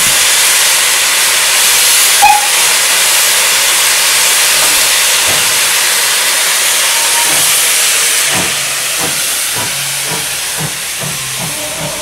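Steam locomotive letting off steam: a loud, even hiss that eases off after about eight seconds, when low irregular knocks come through underneath.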